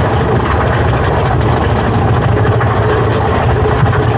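Mine-train roller coaster cars rumbling steadily along the track, heard from on board, with a deep, even rumble and rushing noise.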